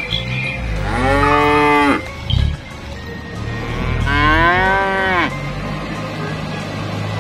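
Cow mooing: two long moos, each rising and then falling in pitch, the first about a second in and the second about four seconds in.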